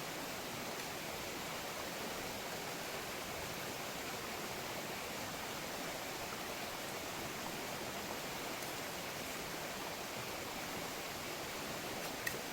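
Waterfall rushing, a steady even roar of falling water with one brief click near the end.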